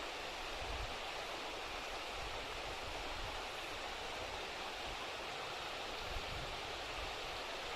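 Steady rushing outdoor noise, with uneven low rumbling of wind buffeting the microphone.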